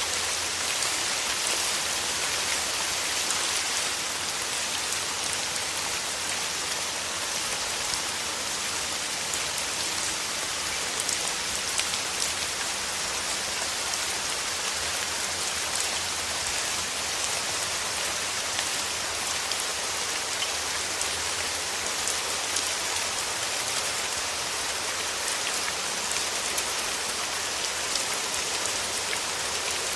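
Steady rain falling, with many close individual drops ticking through a constant hiss.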